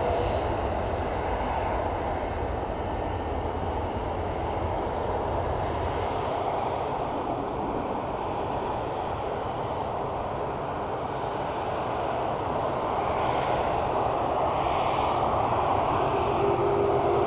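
Jet airliner engines making a steady, wide rush of noise. A deep rumble eases off after about five seconds, then the noise grows louder again near the end, where a steady tone comes in.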